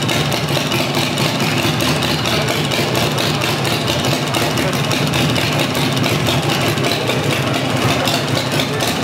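Custom chopper motorcycle engine running at a steady idle.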